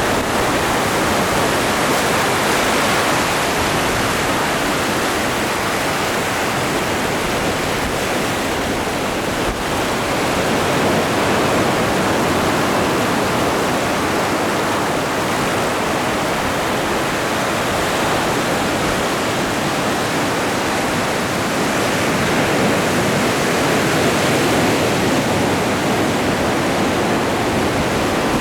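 Atlantic Ocean waves breaking and washing on the shore, a continuous rushing noise that swells and eases slowly.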